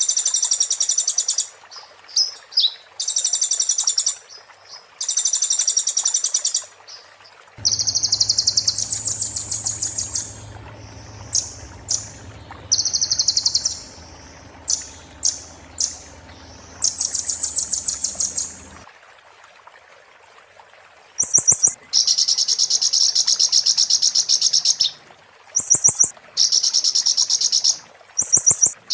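Kolibri ninja (konin) sunbird singing fast, high, buzzy trills in repeated bursts of one to two seconds, the sharp rattling song that bird-keepers call "muntah beling".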